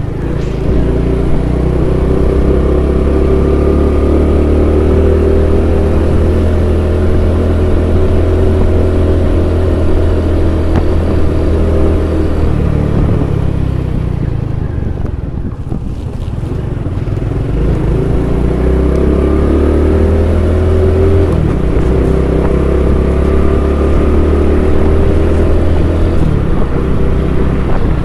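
Honda Pop 110i's small single-cylinder four-stroke engine running steadily while the scooter-style motorcycle is ridden; about halfway through the engine eases off, then picks up again.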